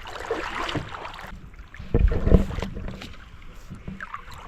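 Kayak paddling on a river: paddle strokes splashing in the water, with a loud, low thump about two seconds in.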